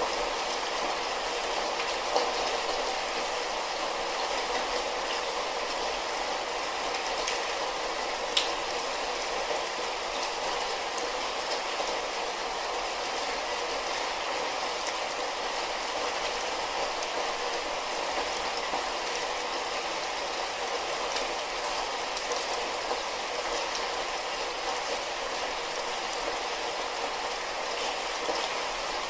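Light rain falling steadily, an even hiss of drops with an occasional sharper tick of a single drop, about three times.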